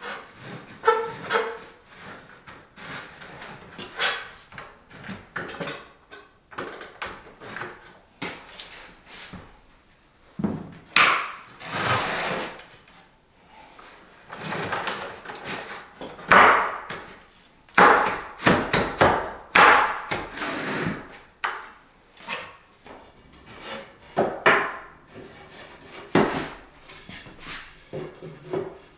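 Irregular knocking and clattering of objects being handled, like wood, drawers or utensils being set down and moved, in a small room.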